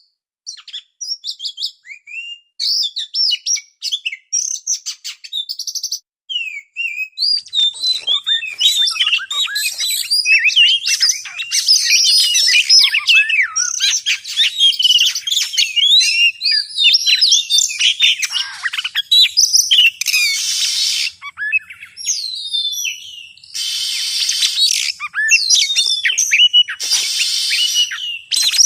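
Oriental magpie-robin (kacer) singing a varied song of quick whistles and chips, sparse at first and continuous from about seven seconds in, broken several times by harsh rasping notes.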